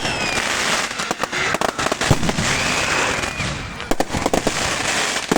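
Fireworks going off: a rapid run of sharp bangs over continuous crackling, with a whistling tone about halfway through.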